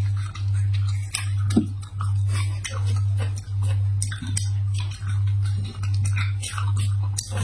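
Close-miked chewing of a sugar-dipped zucchini flower, with many small crisp crunches and mouth sounds. Under it is a loud low hum that pulses evenly, a little faster than once a second.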